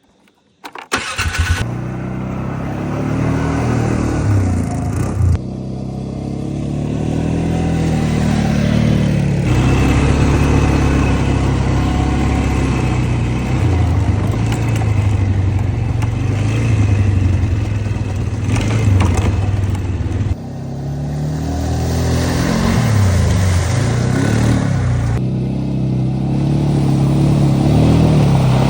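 Four-wheeler (ATV) engine running while being ridden, its pitch rising and falling with the throttle. It starts suddenly about a second in.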